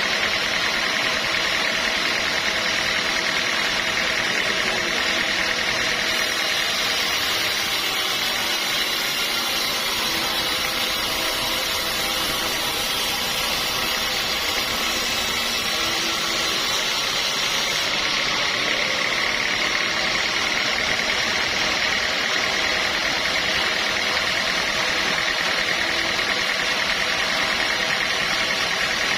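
Sawmill saw machinery running steadily, with a brighter hiss from about six to eighteen seconds in.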